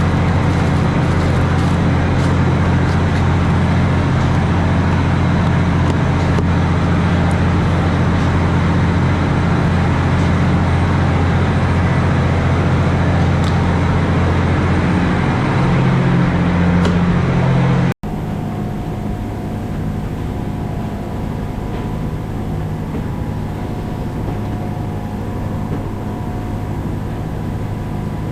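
Steady drone of a prawn trawler's engine and machinery. About two thirds of the way through it cuts abruptly to a quieter, steady machinery hum with a faint high whine.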